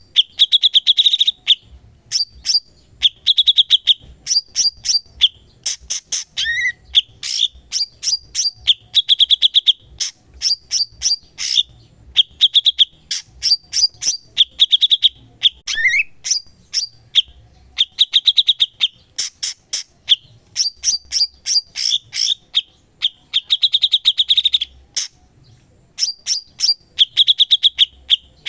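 Cucak cungkok (a bulbul) singing continuously: fast rattling, chattering trills repeated in short phrases with brief pauses between them, now and then a short rising note.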